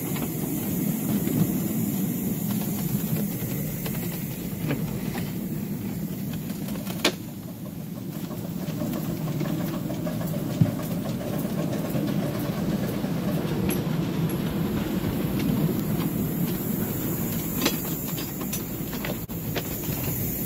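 Miniature railway train running, heard from a passenger truck: a steady rumble of wheels on the track with a few sharp clicks.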